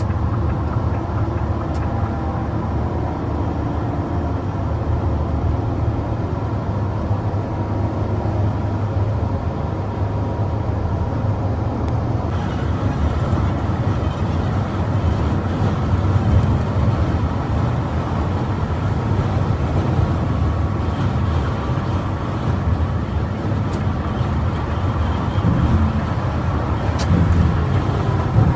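Bus driving at speed: a steady low rumble of engine and road noise.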